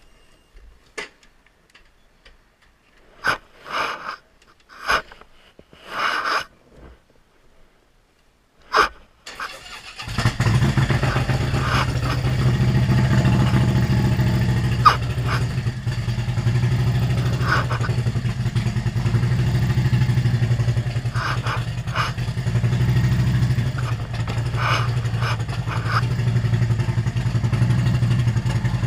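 A few separate knocks and clunks, then about ten seconds in a motorcycle engine starts and runs steadily.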